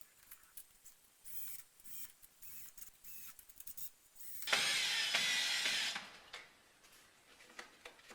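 Light clicks and scrapes of handling, then about a second and a half of loud mechanical whirring starting about four and a half seconds in.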